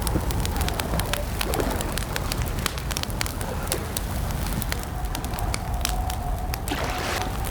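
Campfire crackling, with many quick sharp pops over a low steady rumble. A faint, steady, held tone joins in the last couple of seconds.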